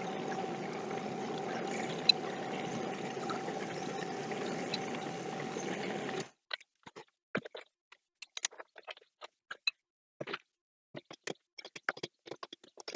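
Small benchtop metal lathe running with a steady hum and whine, which stops abruptly about six seconds in. Then come scattered light metallic clicks and taps of parts and tools being handled.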